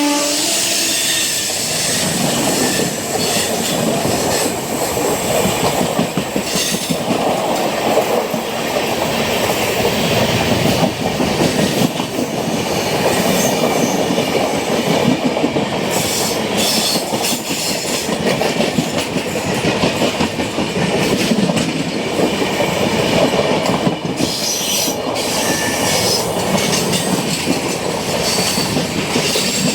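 Passenger train rolling past close by, its wheels clattering over rail joints in a steady stream, with the tail of the diesel locomotive's horn cutting off in the first second. Thin wheel squeals come through near the end.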